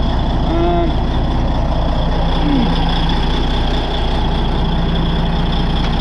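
Caterpillar D8N bulldozer's diesel engine idling steadily.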